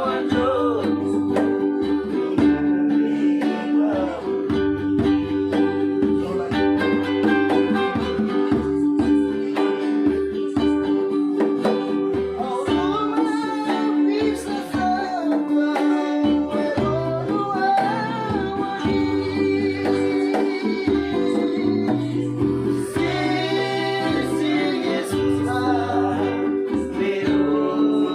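Acoustic song: voices singing over plucked and strummed guitar and ukulele with a steady bass line.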